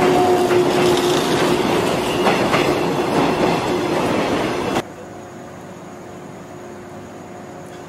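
485-series electric express train rolling along a platform, wheels clicking over rail joints under a steady whine. About five seconds in the sound cuts off sharply to a much quieter steady hum with a faint high tone.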